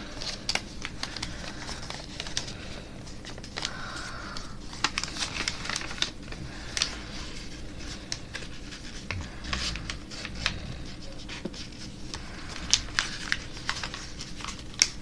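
A paper airplane being folded and creased by hand, with irregular crinkling and crisp crackles of the paper throughout.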